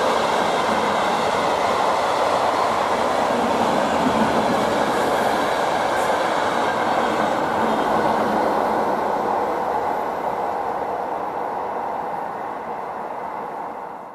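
Passing electric multiple units of ČD classes 460 and 451, their wheels rolling over the rails in a steady rush of noise. The noise fades gradually over the last few seconds as the train moves away.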